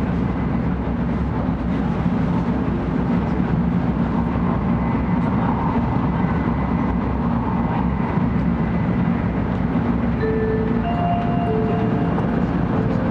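700 series Shinkansen running at speed, heard inside the passenger car: a steady rumble of wheels and rushing air. About ten seconds in, a short tune of clear electronic notes starts over it.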